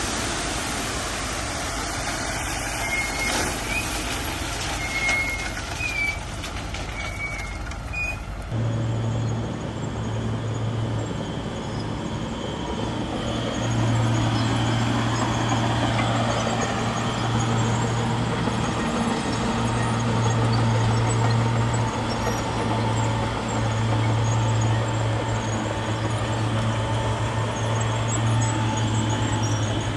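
Heavy diesel earthmoving machinery running, with a few short high chirps in the first part. About eight seconds in the sound cuts to a steady deep engine drone, which gets louder a few seconds later.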